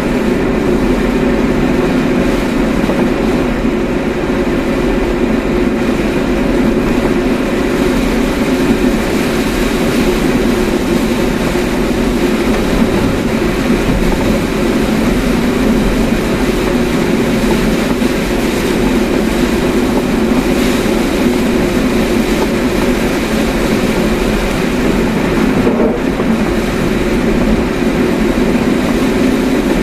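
Steady road and engine noise heard inside a moving car's cabin: an even drone of tyres and engine.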